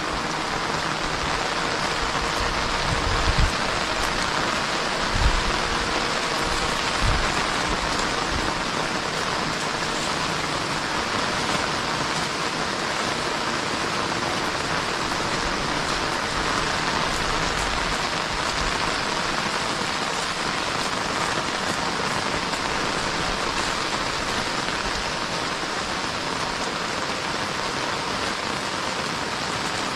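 Steady rain falling, an even hiss of drops. Three short low thumps stand out about three, five and seven seconds in.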